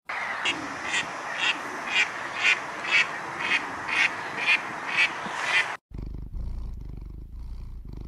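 Greylag geese calling: short calls about twice a second, evenly spaced, over a steady hiss. Near six seconds in, this cuts off suddenly and a kitten's purring follows as a low, pulsing rumble.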